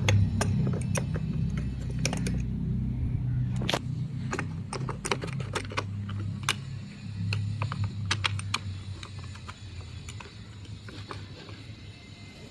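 Irregular clicks and taps, about a dozen of them, of plastic vacuum-cleaner parts being handled and fitted together, thinning out after about nine seconds, over a low hum.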